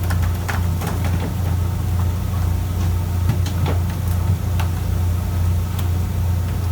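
Fishing boat's engine running steadily as a low, even drone, with scattered light clicks and knocks on top.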